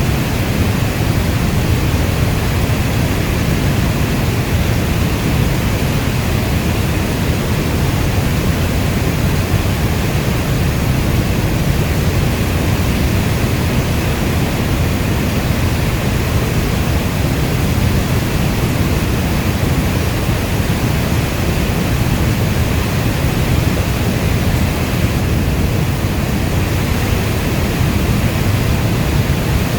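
Steady rainfall, an even rushing hiss weighted toward the low end, with no thunder and no single drops standing out.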